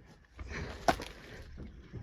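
Shuffling and rustling of someone moving through clutter, with one sharp knock a little under a second in.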